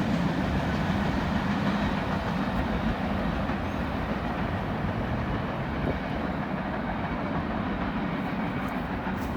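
Freight train's cars rolling by on the rails, a steady rumble and rail noise that slowly fades as the train draws away.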